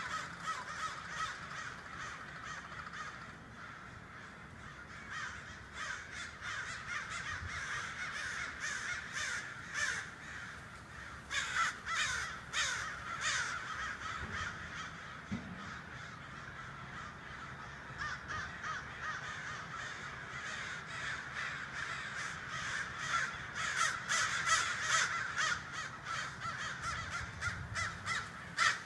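A large flock of birds calling all at once, a dense unbroken din of overlapping harsh, crow-like caws and chatter. It swells louder about a third of the way in and again near the end.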